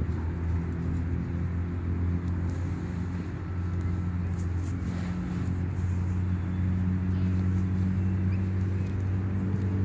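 An engine running steadily with a low, even hum that holds one pitch throughout.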